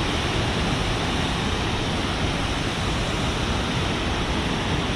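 Steady rush of falling water from the Khone Phapheng falls, the large cascade on the Mekong River.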